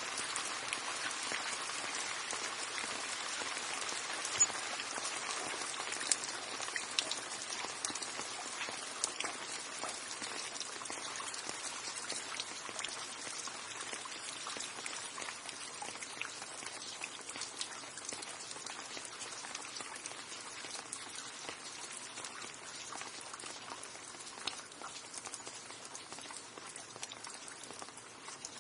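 Steady rain falling, with single drops ticking sharply here and there over the hiss, slowly growing quieter toward the end.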